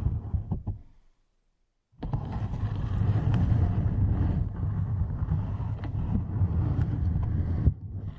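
Close-microphone ASMR trigger noise: dense low rubbing and rumbling with scattered small taps. It fades out to near silence about a second in and starts again abruptly a second later.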